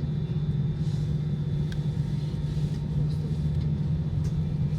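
Steady low drone of an airliner cabin on the ground before takeoff: the engines and air system heard from inside the cabin, with a faint click or two.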